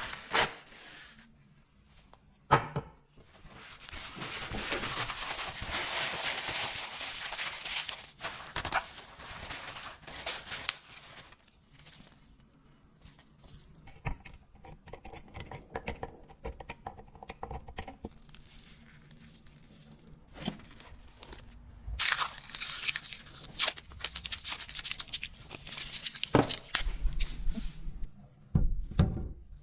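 Close-up scraping and rasping from hand work, in two longer stretches, with many short clicks and taps in between.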